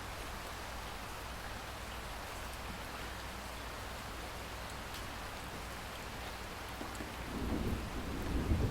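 Steady rain with scattered faint drips. About seven seconds in, a low rumble of thunder builds and carries on.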